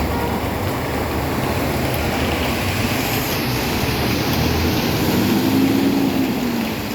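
Heavy rain falling, a dense steady hiss. A faint low hum swells and fades about five seconds in.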